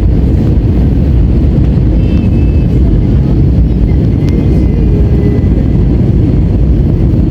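Loud, steady rumble of an airliner's engines and airflow heard from inside the passenger cabin during the landing.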